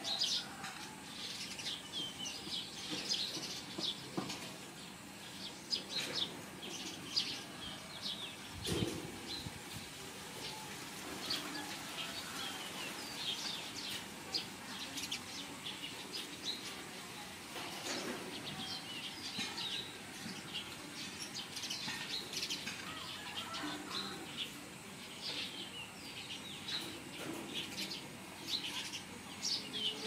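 Small birds chirping and twittering in the background: many short, high, quick calls scattered throughout.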